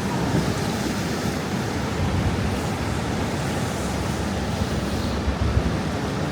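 Strong wind buffeting the camera's microphone in a snowstorm: a steady rushing noise, heaviest in the low end, with a stronger gust about five seconds in.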